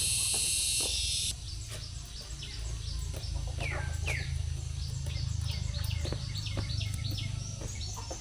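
Small birds chirping and tweeting, with many short high calls and two longer falling calls about three and four seconds in, over a steady low rumble. The first second holds a loud high hiss that cuts off suddenly.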